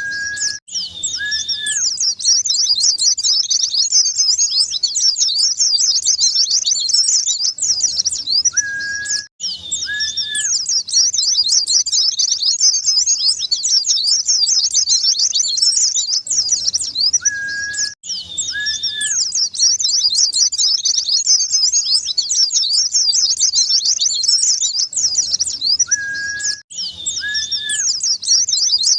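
White-eye (pleci) song: a dense, rapid, high-pitched twittering that does not let up. It is a recording looped about every nine seconds, with a brief gap between loops, and each loop opens with two short lower whistled notes.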